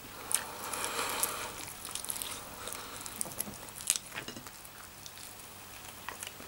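A person chewing chicken wings close to the microphone: wet mouth smacks and small clicks, busiest in the first two seconds, with a sharper click about four seconds in.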